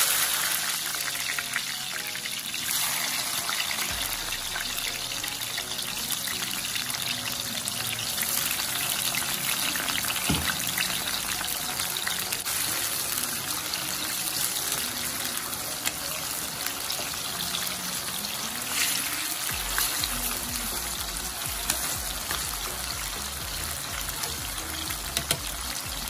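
Thin sweet potato (kamote) slices sizzling and crackling in hot oil in a frying pan, starting suddenly as the slices go in and continuing as a steady, dense sizzle.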